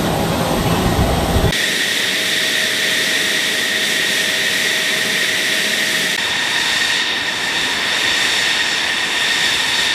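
Fighter jet engine running with a steady high-pitched whine over a loud rush of air. It takes over abruptly about a second and a half in, replacing a deeper, rumbling noise.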